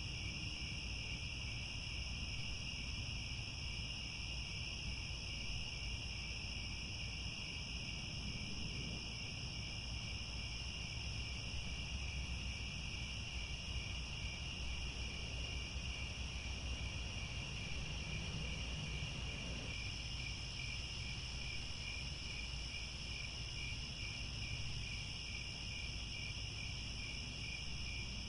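A chorus of crickets chirping without pause in two layers at different pitches, one a higher steady ring and one lower that turns into a clear, even pulse about two-thirds of the way through, over a low, steady rumble.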